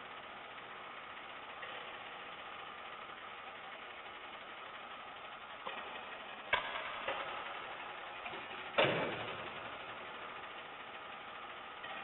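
Garbage truck engine idling steadily, with two sharp knocks or clanks about six and a half and nine seconds in, the second one the loudest.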